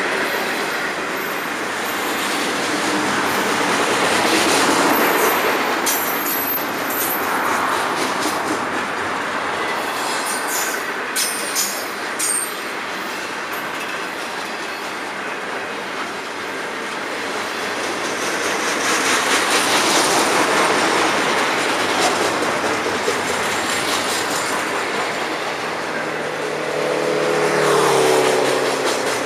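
Freight cars of a long train rolling past, wheels clattering over the rail joints in a steady rumble that swells and fades. Brief high wheel squeals come in a few times, and near the end a lower pitched tone slides downward.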